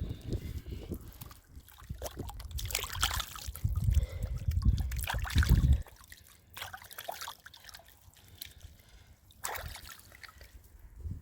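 Water sloshing and trickling, with irregular knocks and a low rumble that cuts off suddenly about six seconds in.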